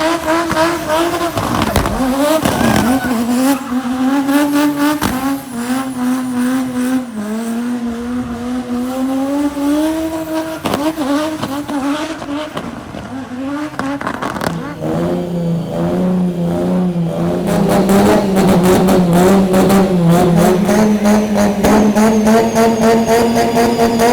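Black Smoke Racing's turbo-diesel Mercedes 123 drift car running hard at high revs, its engine note wavering up and down as the revs change. About two-thirds of the way through, the note drops to a lower, steadier pitch.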